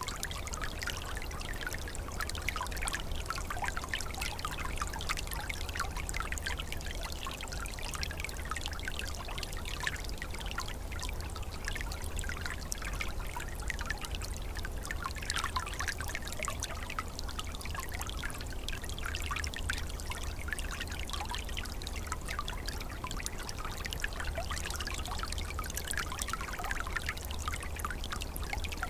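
A small, shallow stream trickling and gurgling over stones, a steady babble of many small splashes. A low rumble sits underneath throughout.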